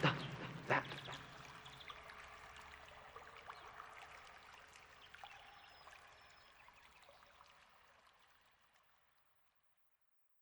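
Trickling, running water ambience with small clicks, fading out steadily to silence over about nine seconds. Two short pulses sound near the start.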